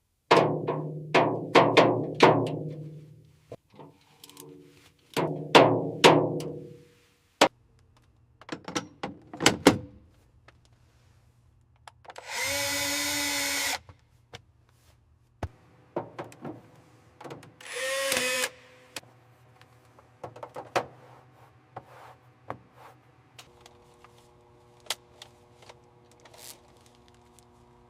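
A series of ringing metallic clanks and knocks as metal parts are handled and struck, with scattered clicks. A steady buzzing tone lasts about a second and a half near the middle, and a shorter one follows a few seconds later.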